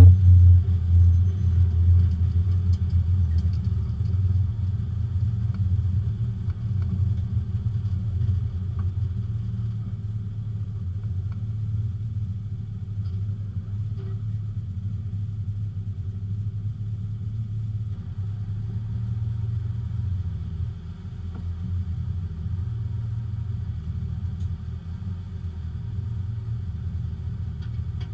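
Porsche 924 race car's four-cylinder engine running steadily, heard from inside the cabin as a low drone. It eases off over the first several seconds and dips briefly about three-quarters of the way through.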